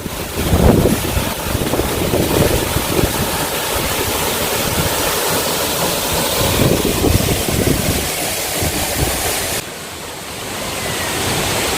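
Waterfall rushing steadily, with wind buffeting the microphone in low gusts. The sound drops for a moment about ten seconds in, then comes back.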